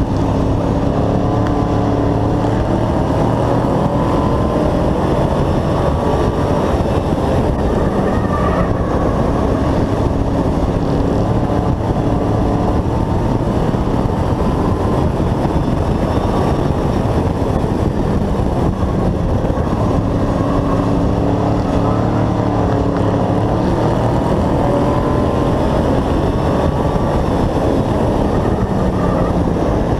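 Race truck's engine heard from on board at racing speed, running loud and steady. Its pitch swells up and down in a slow repeating pattern over a constant rush of noise.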